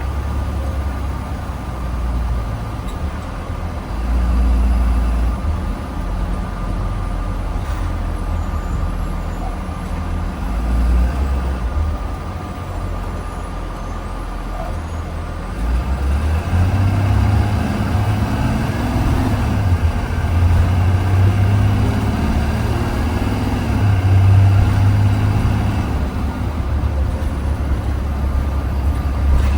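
2020 Blue Bird Vision school bus on the move, heard from inside: a steady deep engine and road rumble that grows louder from about halfway through.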